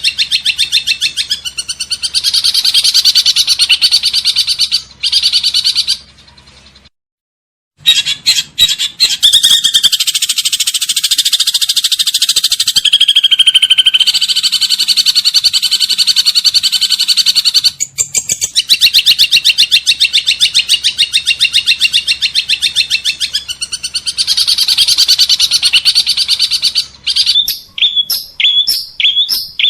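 Recorded songbird song played as masteran material for a long-tailed shrike: long runs of very fast trilled notes, broken by about a second of silence some seven seconds in, and turning into separate short chirps near the end.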